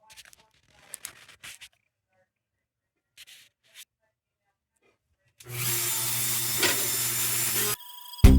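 A few faint rubbing and handling sounds, then about five seconds in a hand-held power tool runs steadily for a little over two seconds, its motor hum mixed with a hiss, and stops abruptly. Music starts just at the end.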